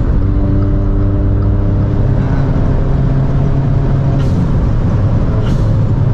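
Remapped Stage 2 Volkswagen Up TSI's turbocharged three-cylinder engine pulling under load at a nearly constant pitch, with two faint short clicks about four and five and a half seconds in.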